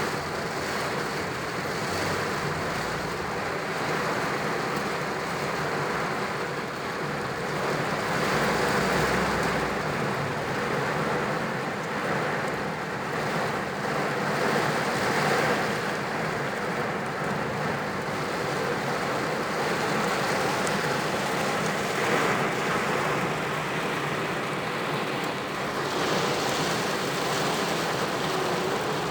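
Rain beating steadily on a car's body, a dense, even hiss with no let-up.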